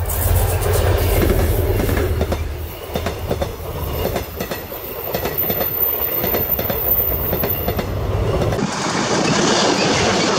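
A diesel locomotive passes close by with a heavy engine rumble, and its passenger coaches follow with a clickety-clack of wheels over the rail joints. About eight and a half seconds in, the sound switches abruptly to a closer, hissing rush of coach wheels on the rails.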